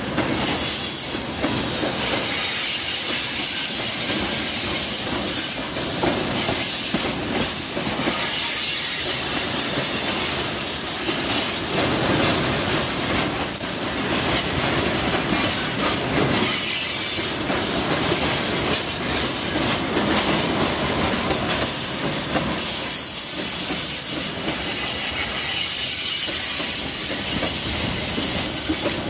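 Freight train of tank cars and then covered boxcars rolling past, steel wheels on rail making a steady noise broken by repeated knocks as wheelsets pass.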